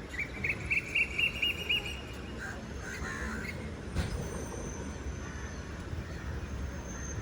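A bird calling: a quick run of about eight short chirps in the first two seconds, over a steady low rumble.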